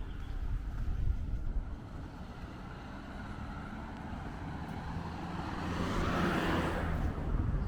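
A car driving past: its engine and tyre noise swells to a peak about six to seven seconds in and then falls away, over a low rumble of wind on the microphone.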